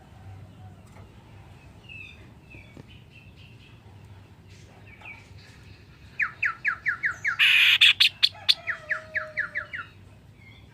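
A kaso-kaso bird singing: soft scattered chirps, then about six seconds in a loud, rapid run of sharp down-slurred notes, about six a second. Near the middle of the run comes a harsh, noisy burst, and a lower drawn-out falling note follows it.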